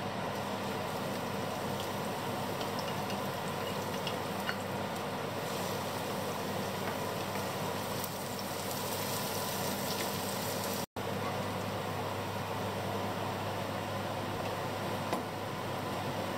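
Chopped aromatics sizzling in hot oil in a stainless steel frying pan as they are stirred with a wooden spatula, over a steady hum. The sound drops out for an instant a little past the middle.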